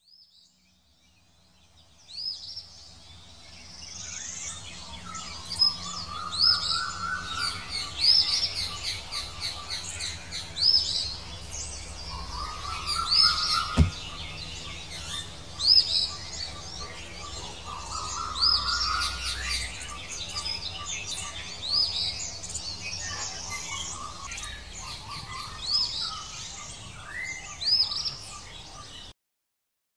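Birds singing in a forest: many quick high chirps repeat throughout, and a lower whistled call comes back every few seconds, over a faint low hum. There is one sharp click about halfway through, and the birdsong cuts off abruptly near the end.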